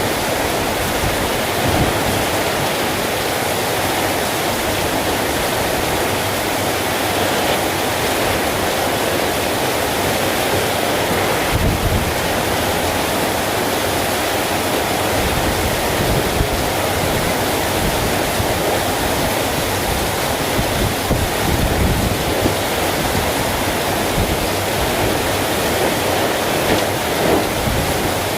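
Heavy rain pouring down steadily, with strong wind gusting against the microphone in low rumbles now and then.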